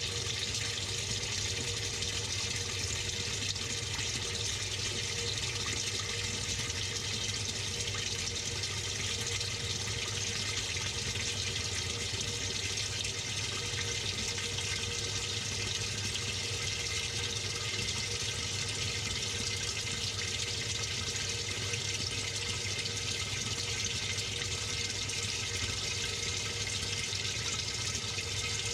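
Water pouring steadily into the tub of a Samsung 6.5 kg top-load washing machine, with a faint steady hum under it.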